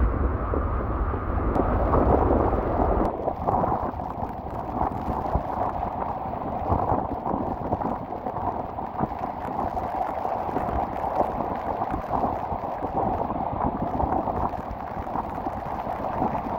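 Storm waves breaking and washing, a steady rushing noise, with strong wind rumbling on the microphone until it cuts off about three seconds in.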